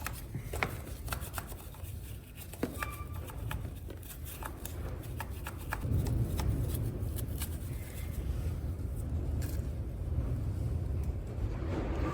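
Hand tool scraping and scrubbing caked dirt and old chain grease out from around a motorcycle's front sprocket: irregular scratching with scattered light clicks.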